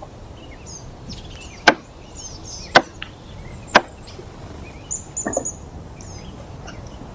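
Three sharp chopping strikes about a second apart, a blade biting into wood, then a quick cluster of softer knocks.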